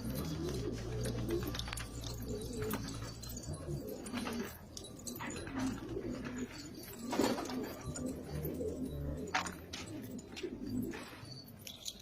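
Domestic pigeons cooing, with repeated low, wavering calls overlapping one another, over a low steady hum that stops about nine seconds in.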